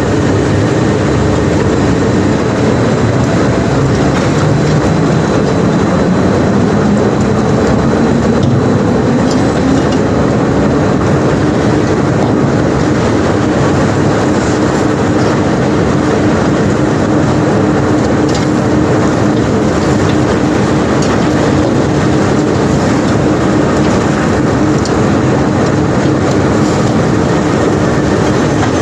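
Heavy unloading machinery working a barge of cobblestones, running steadily with a constant hum. Its pitch rises slowly around six seconds in, and a few faint knocks sound over it.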